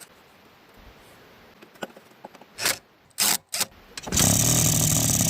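Polaris Sportsman 90 ATV engine being cranked over for about a second and a half near the end, after a few clicks and knocks. This is a spark check on the non-running engine, cranking without starting.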